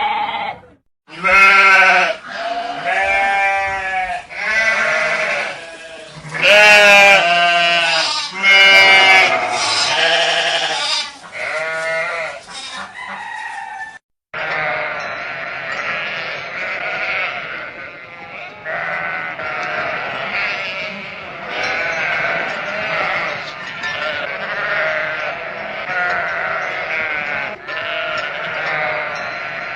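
Sheep bleating. First come several loud, separate bleats. After a sudden break about fourteen seconds in, a flock bleats over one another without pause.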